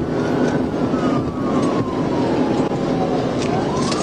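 Police car siren wailing in a slow rise and fall: the pitch climbs, sinks gradually over about three seconds, then climbs again near the end. Behind it is a steady roar of road, wind and engine noise from the patrol car running at high speed.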